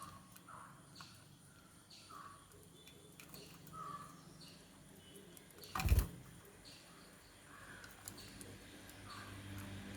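Lovebirds chirping, short calls repeating about once a second, with a single loud thump about six seconds in.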